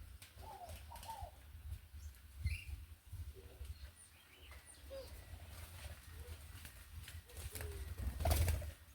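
Birds at a feeder: a few soft arching dove coos in the first second or so, then scattered short high chirps from small birds, and a short rustling flurry, like wings, near the end.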